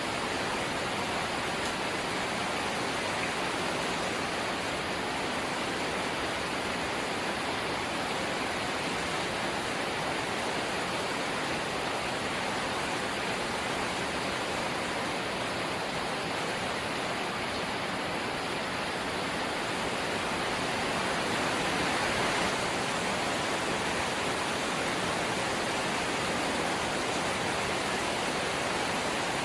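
Light rain falling steadily: an even hiss with no separate drops or other events standing out, swelling slightly about two-thirds of the way through.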